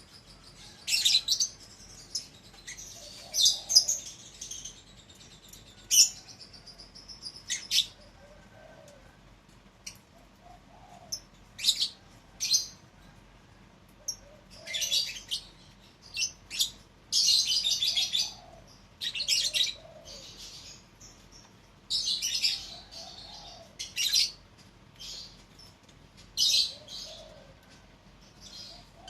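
Lovebirds chirping: sharp, high-pitched calls in irregular bursts and short flurries, with brief pauses between them.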